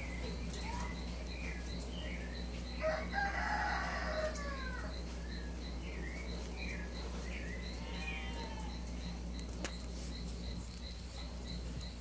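Outdoor bird calls: a louder, longer call about three seconds in, over scattered chirping notes and a short high chirp repeating about three times a second.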